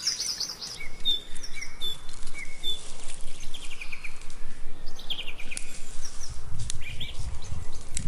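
Several small birds singing, repeating short chirping phrases, with a few light clicks of dry sticks being stacked into a fire lay. A low rumble comes in near the end.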